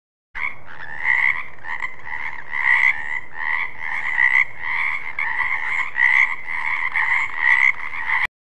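Frog croaking in a steady run of calls, about two a second, starting and stopping abruptly.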